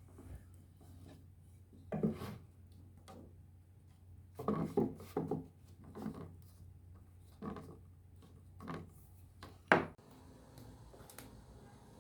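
Irregular knocking and rubbing of kitchen work on a wooden surface, about seven separate strokes with the loudest a sharp knock near the end, over a low steady hum that stops near the end.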